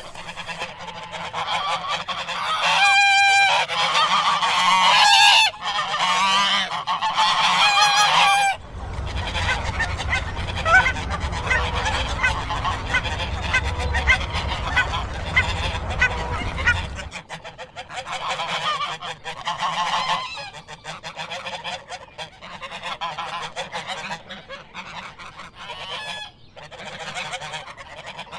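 Ducks quacking, many short calls overlapping, loudest in the first few seconds. A low rumble runs under the calls through the middle.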